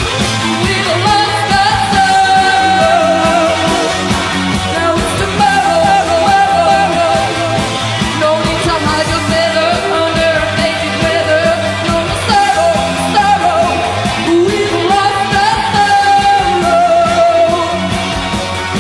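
Post-punk rock band playing, with a woman singing long, wavering held notes over driving drums and a dense band backing.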